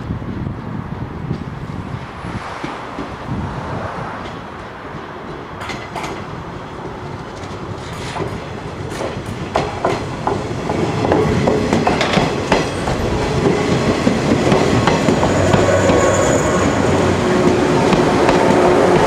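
Electric multiple-unit train approaching and passing close by, its wheels clicking over rail joints and points, growing louder as it nears, with a brief high wheel squeal near the end.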